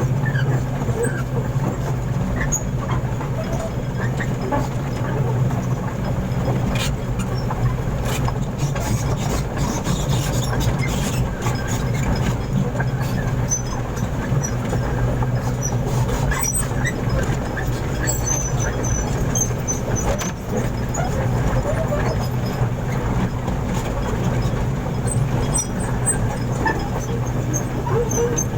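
Truck engine running steadily at idle, with scattered knocks and clatter, clustered a few seconds in and again near the middle.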